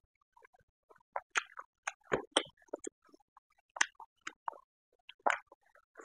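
Close-miked wet chewing and lip smacks of someone eating pork and rice by hand: irregular short smacks and clicks, several a second, with soft squelches of fingers working rice and curry on a steel plate.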